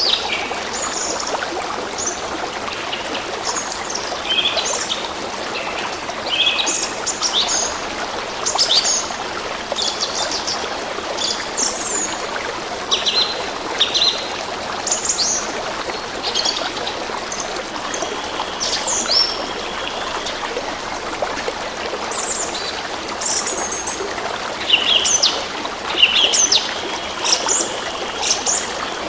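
A flowing stream trickling steadily, with small songbirds chirping and singing over it in many short, quick calls throughout.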